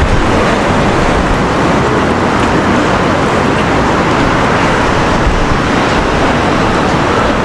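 Steady city street traffic noise, a constant rush of road vehicles.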